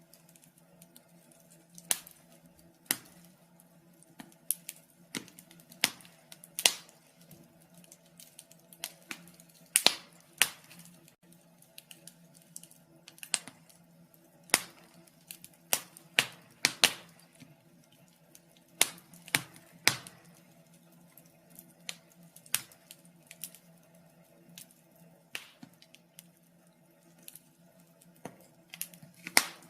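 Wood fire crackling in a fireplace: irregular sharp pops and snaps, a few every couple of seconds, over a faint steady hum.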